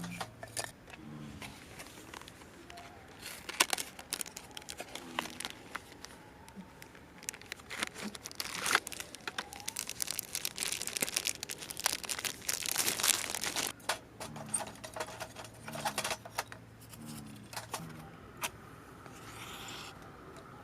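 Rustling, crinkling handling noise with scattered sharp clicks, busiest and loudest in the middle stretch.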